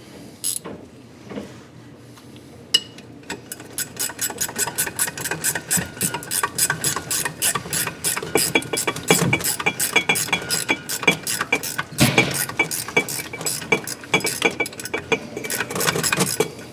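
Hand ratchet wrench clicking rapidly as it is worked back and forth, a dense run of sharp metallic clicks with a faint ring, starting a few seconds in after a few isolated clicks.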